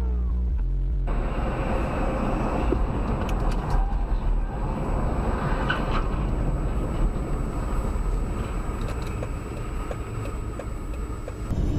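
Car interior road noise as picked up by a dashcam: engine and tyre rumble, with a faint steady high-pitched whine and a few light clicks. A low hum cuts off about a second in.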